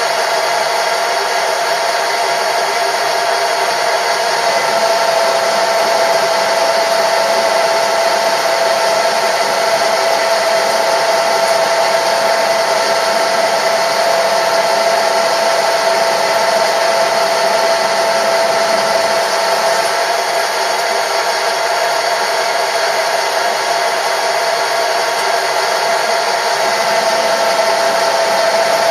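A machine tool running steadily, with a constant whine over an even hiss that holds without change throughout.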